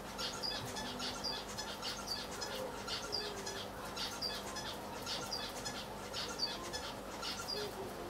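Short, high chirps repeating about twice a second, like a small bird calling, over a steady low hum.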